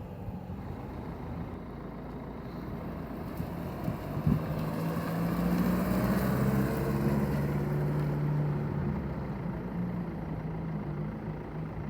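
A vehicle engine running steadily, louder in the middle and easing off again, as of a vehicle driving past. There is a single sharp knock about four seconds in.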